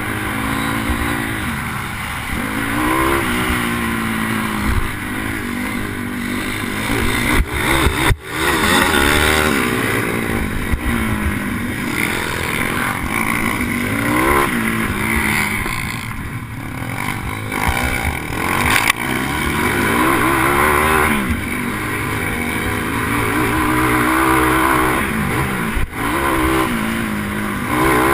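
Pitbike's single-cylinder four-stroke engine revving up and dropping back over and over as it accelerates, brakes and shifts through the course, with wind rushing over the helmet camera. There is a sharp knock about eight seconds in and another near the end.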